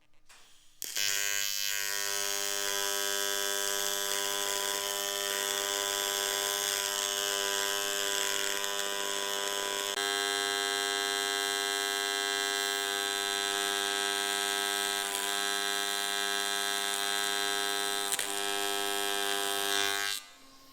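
AC TIG welding arc on thick aluminum, a steady buzz that starts abruptly about a second in, changes tone slightly about halfway, and cuts off near the end. The first tack welds on this thick aluminum are not puddling in well enough because the part is not yet hot enough.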